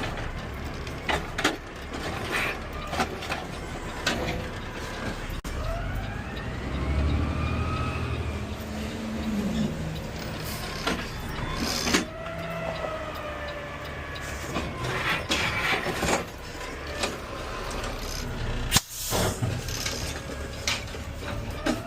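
Peterbilt automated side-loader garbage truck at work: its engine and hydraulics run with a whine that rises and falls in pitch twice, over a heavier low rumble, amid a string of knocks and clanks, with one sharp knock near the end.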